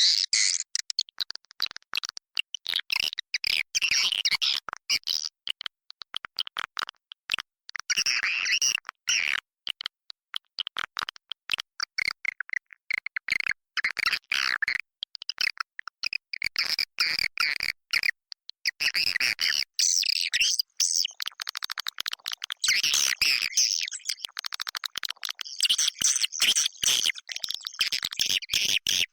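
Edible-nest swiftlets calling, recorded inside a swiftlet house: a dense, unbroken chatter of rapid clicks and high chirping twitters. It is the lure call played to draw swiftlets in to roost and nest.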